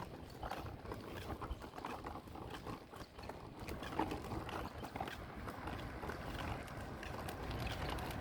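Footsteps on a paved road: a steady run of small clicks and scuffs from people walking.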